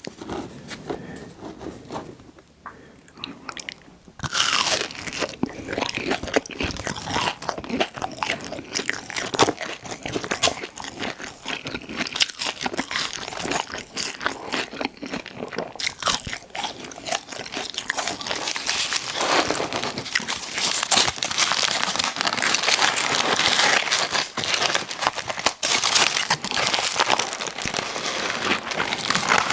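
Close-miked eating: crunchy bites and chewing of fried fast food, sparse at first, then dense and continuous from about four seconds in.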